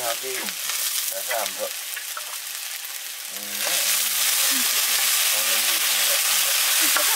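Boiled water buffalo (buff) skin and bone pieces and spices sizzling in hot oil in an iron wok, with a steel ladle scraping and stirring against the pan. About three and a half seconds in, the sizzle gets louder as more meat goes into the hot oil.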